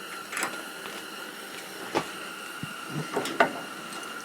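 Bench vise being worked by hand: a few sharp metallic clanks and knocks, about half a second, two seconds and three to three and a half seconds in, the last the loudest, over a faint steady high hum.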